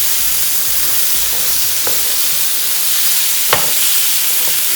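Chicken, onions and bell peppers sizzling steadily in oil on a griddle heated to 400 °F while the chicken is turned over. A utensil clicks sharply against the griddle twice.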